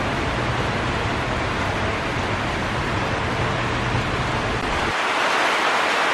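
Spirit of Queensland train set running out of the station, a steady low hum under the hiss of rain. About five seconds in the hum cuts off abruptly, leaving only the steady hiss of rain.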